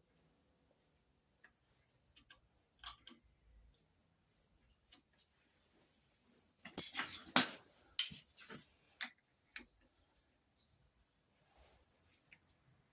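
Metal tools clinking and knocking against engine parts. A few faint taps come first; then, about seven seconds in, a run of sharp clinks and knocks lasts about three seconds.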